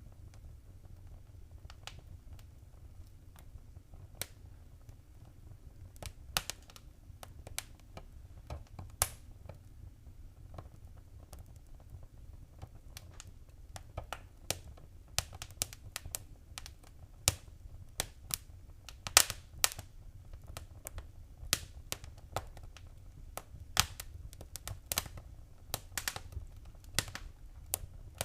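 Wood fire crackling in a fireplace: irregular sharp pops and snaps, sparse at first and coming more often in the second half, over a low steady rumble.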